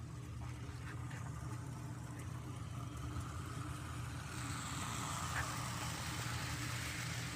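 Prewar Lionel O-gauge tinplate train running on its track: a steady low electric motor hum with rolling wheel noise that grows louder from about four seconds in.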